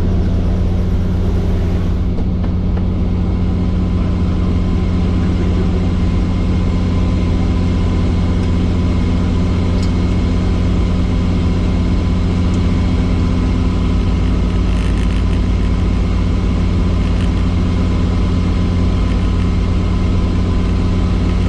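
Helicopter running with a loud, steady drone of rotor and engine that holds an even pitch throughout.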